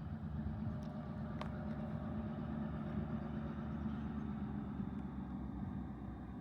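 Diesel locomotive engines running with a steady low rumble, with a brief click about one and a half seconds in.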